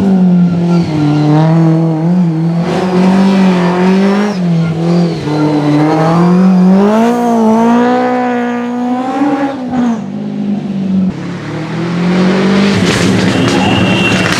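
Historic rally car engine pulling hard on a special stage, its pitch rising and falling through gear changes and corners. About ten seconds in it eases off briefly, then pulls steadily again.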